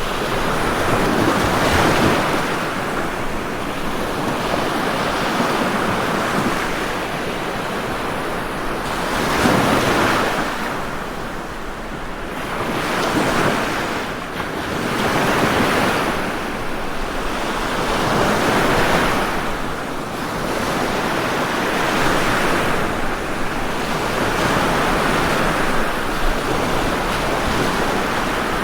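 Ocean waves surging and breaking in a steady wash of surf, the sound swelling every three to four seconds.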